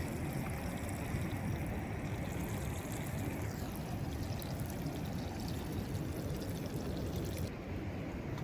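Piau fish frying in hot oil in a pan: a steady sizzle with small crackles as it browns.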